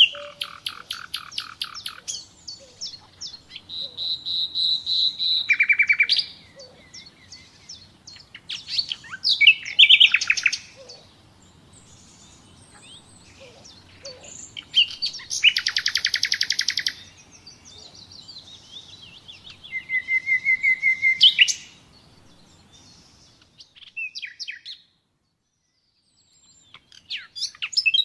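Common nightingale singing: loud, separate phrases of fast repeated notes and trills, each a second or two long with short pauses between. The song stops briefly for a couple of seconds near the end, then resumes.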